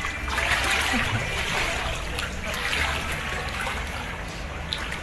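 Floodwater running and splashing, a rushing noise that swells and eases over a steady low rumble.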